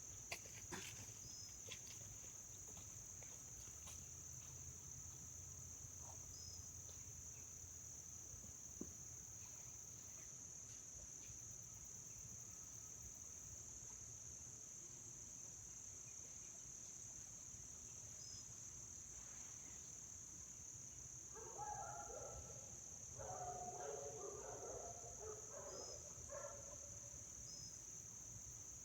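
Faint, steady high-pitched chorus of insects such as crickets, running throughout, with some brief, faint, broken sounds of unclear source about three-quarters of the way through.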